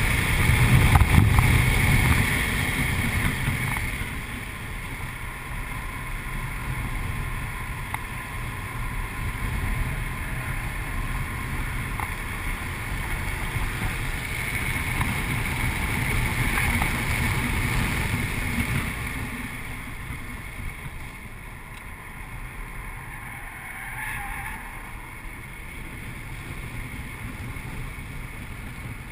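Inside the cabin of a 2008 Audi RS4 at track speed: its 4.2-litre V8 runs under load, mixed with wind and road noise. It is loudest in the first few seconds, swells again around the middle, and is quieter in the last third.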